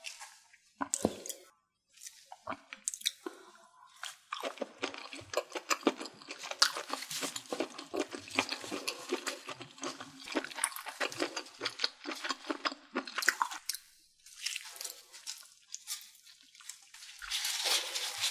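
Close-miked chewing of crunchy food, with dense crisp crackling from about four seconds in to about thirteen, then quieter. Near the end, a rustle of fresh herbs and lettuce leaves being folded into a wrap.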